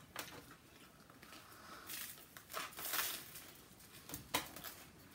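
Close-up eating sounds: irregular crunching and chewing with scattered sharp clicks, from a person biting into and chewing food.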